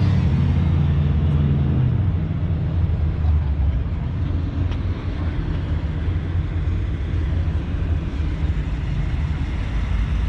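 Motor vehicle engine running with a steady low rumble; a clearer engine note fades out in the first two seconds.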